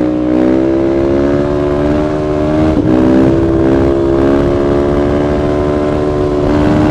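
Suzuki DRZ400SM's single-cylinder four-stroke engine pulling at steady high revs while riding, its pitch climbing slightly in the first second and then holding.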